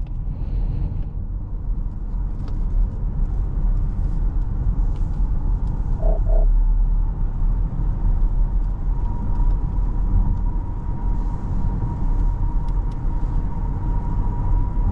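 Road and tyre noise heard from inside the cabin of a 2024 Porsche Cayenne driving on a wet road: a steady low rumble. A faint, thin, steady high tone joins about nine seconds in.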